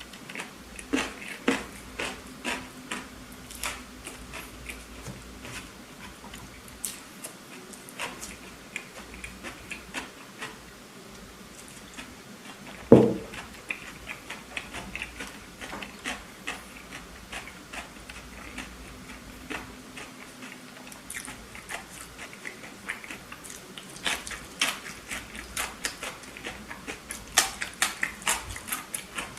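Close-up chewing and biting of a burger: wet mouth clicks and smacks, thickening near the end. One louder thump comes about halfway through.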